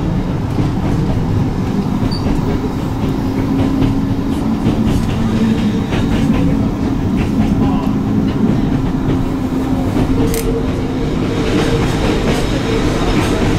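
Hakone Tozan Railway electric train running downhill on its mountain line, heard from inside the front of the car: a steady rumble of wheels on rail with a low hum and frequent clicks from the rail joints.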